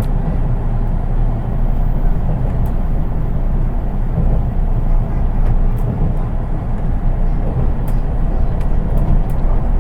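Running noise inside a JR East 183 series electric train, heard from the unpowered driving trailer car: a steady low rumble of wheels on track, with a few faint ticks.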